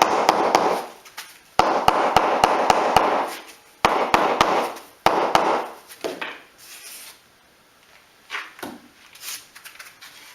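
A brick being tapped down into its mortar bed. There are three bursts of rapid knocks with scraping, each lasting a second or two, followed by fainter handling noises.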